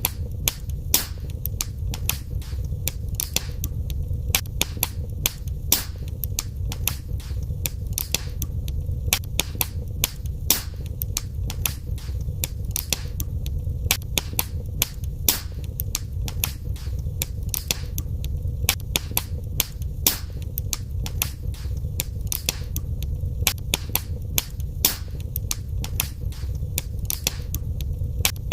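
Fire crackling in a fireplace: a constant run of sharp pops and snaps, several a second, over a steady low rumble of the flames.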